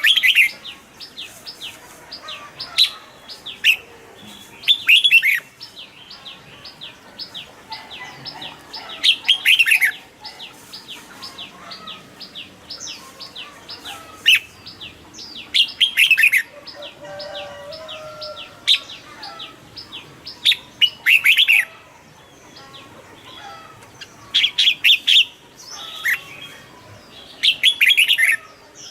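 Red-whiskered bulbul singing: short, loud phrases of quick falling notes every two to four seconds, over a steady series of faint, high ticking chirps about three a second.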